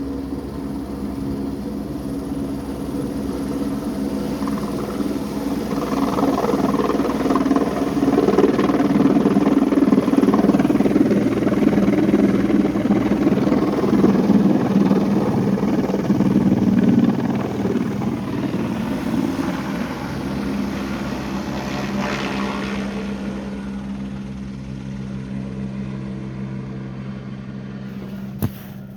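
Helicopter flying by with a steady rotor chop and engine drone. It builds to its loudest in the first half, then slowly fades away.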